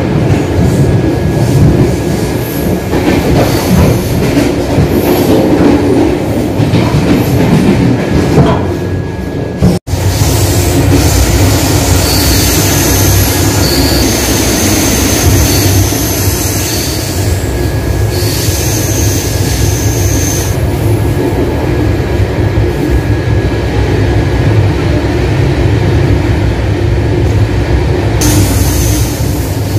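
Running noise inside a moving passenger coach: a steady rumble of wheels on rail with clickety-clack, and high wheel squeal coming and going after about ten seconds, as on curves. A brief dropout near ten seconds.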